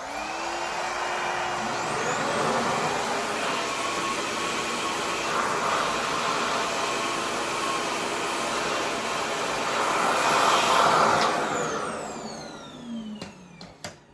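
Revair reverse-air hair dryer running: its motor spins up with a rising whine, then gives a loud, steady rush of air. About twelve seconds in it winds down with a falling whine as it switches off.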